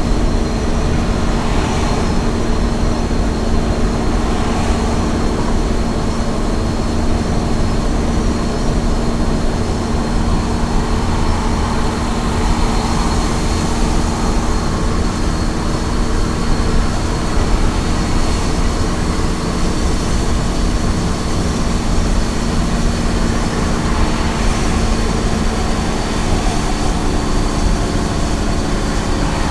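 Small truck's engine running steadily at highway cruising speed, with a constant rumble of road and tyre noise and a thin steady high whine over it.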